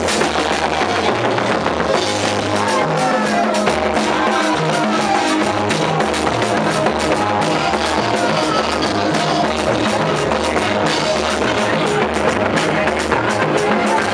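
Live band music with drum kit, bass and guitar playing a steady, danceable beat.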